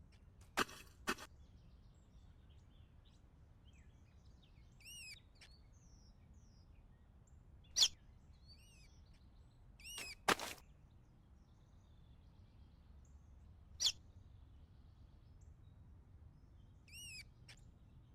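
A bird giving short, arched chirps, several scattered calls through a quiet background, with a few sharp clicks or knocks in between.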